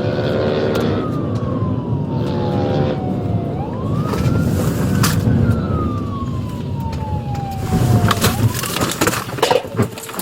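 Police car siren wailing in slow rises and falls over the patrol car's engine and road noise. A few sharp knocks come near the end.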